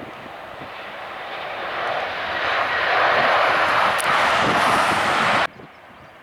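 Jet airliner's engines heard as the aircraft passes: a rushing jet noise that grows louder over about three seconds, holds, then cuts off suddenly near the end.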